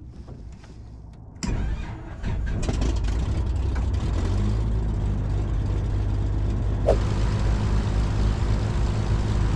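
Pitts Special's aircraft engine being started: a few faint clicks, then it fires about a second and a half in, picks up again just under a second later, and settles into steady running.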